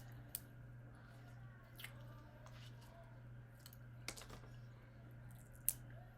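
Prawn shells being picked apart and eaten: a few scattered sharp clicks and cracks, with soft chewing sounds, over a low steady hum.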